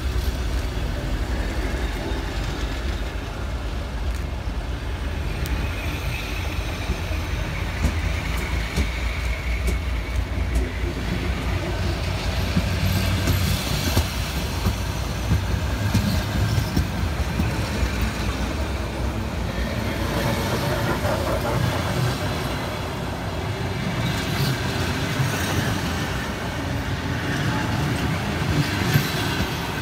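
ER2 electric-train carriages rolling past at close range: a steady rumble of steel wheels on the rails, with occasional sharp knocks from the wheels and running gear.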